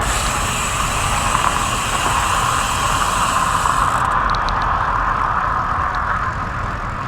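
Steady wind and road noise from riding a road bike in traffic, with vehicle noise mixed in; the upper hiss drops away about four seconds in.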